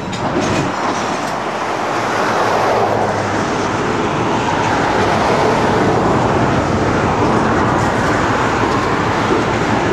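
Freight train with a diesel switcher locomotive moving through a rail yard: a steady, even noise with no clear engine tone.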